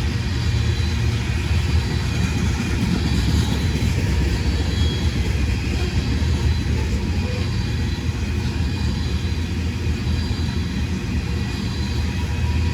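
Freight train rolling past, a steady rumble of cars on the rails.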